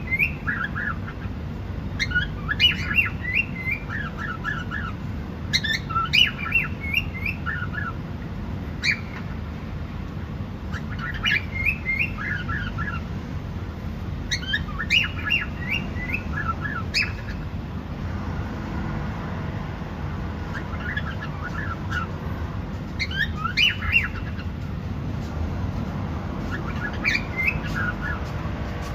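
Cockatiel calls: short clusters of quick chirps and squawks, repeating every few seconds over a steady low background rumble.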